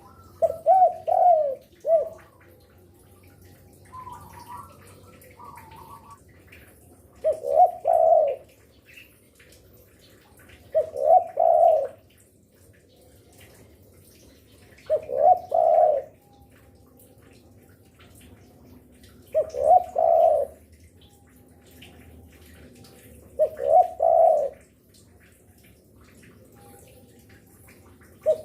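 Spotted dove (derkuku) cooing: a low, rolling coo phrase of about a second, repeated roughly every four seconds. Softer, higher calls come in briefly between the first phrases.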